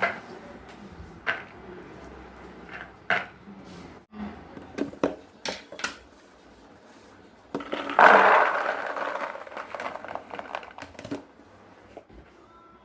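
Food storage containers and lids being handled and set down: a string of sharp clicks and knocks, with a louder rustling, scraping burst about eight seconds in that dies away over a second or two.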